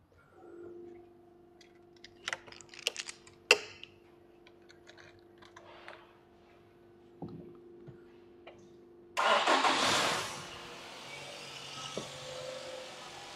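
Nissan QR25 2.5-litre four-cylinder starting for the first time after a head gasket replacement: after a faint steady hum and a few clicks, the starter cranks and the engine catches about nine seconds in with a loud burst lasting about a second, then settles into a steady idle.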